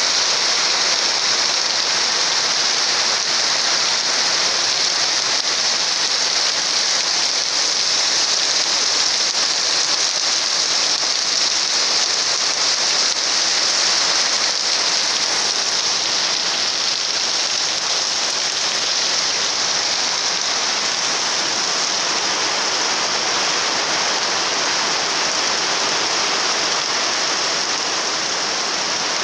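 Heavy rain of large, thick drops pouring steadily onto sheet-metal roofs and a flooded street, a dense unbroken hiss that eases off slightly near the end.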